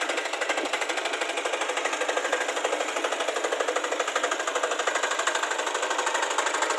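Diesel engine of a power weeder running steadily, with a rapid, even chugging pulse.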